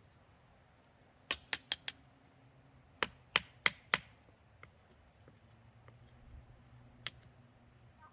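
Sharp knocks or snaps in two quick runs of four, then a single one a few seconds later.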